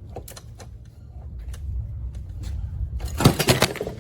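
A stuck metal part being pried out with a tool. There are scattered metallic clicks, then a burst of scraping and clanking about three seconds in as it works free.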